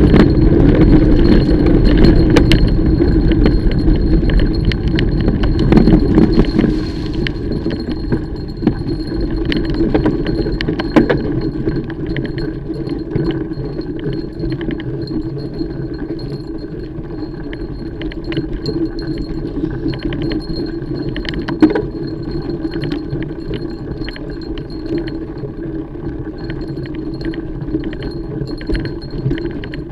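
Mountain bike being ridden on a trail: steady tyre and rolling rumble with the chain and bike parts rattling and clinking in short clicks over bumps. Louder for the first seven seconds or so, then quieter.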